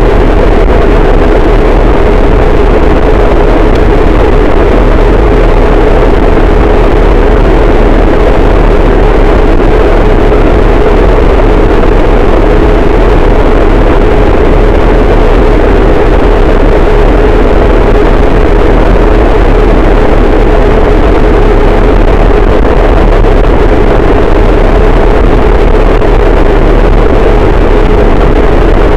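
Harsh noise wall: a very loud, unchanging wall of dense distorted noise, dark and muffled with heavy bass and a steady droning band in the middle, and no bright highs.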